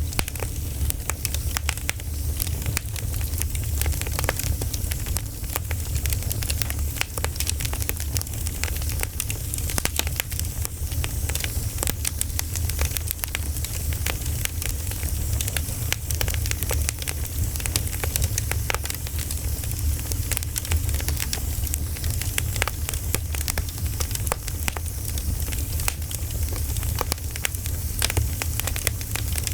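Bonfire crackling steadily: dense, irregular pops and snaps of burning wood over a constant low rumble.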